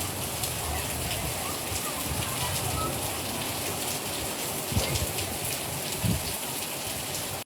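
Rain falling steadily: an even hiss of drops striking surfaces, with a few faint low thumps about two-thirds and four-fifths of the way through.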